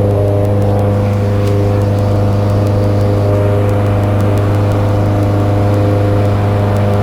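Cessna 172's four-cylinder piston engine and propeller droning steadily in the climb, heard from inside the cabin as a loud, even hum with a low steady pitch.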